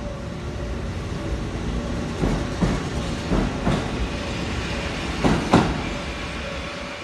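Kotoden (Takamatsu-Kotohira Electric Railroad) electric train pulling away from a station, with a steady rolling noise. Its wheels clack over rail joints in three pairs of knocks as the bogies pass, the last pair the loudest.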